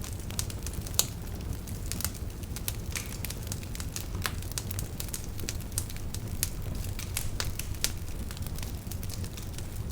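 Wood fire burning in a fireplace: irregular sharp crackles and pops over a steady low rumble of the flames, with one louder pop about a second in.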